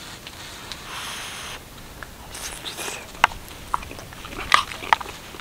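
A person eating from a steel mug with a wooden spoon: chewing and mouth noises, with several sharp clicks in the second half.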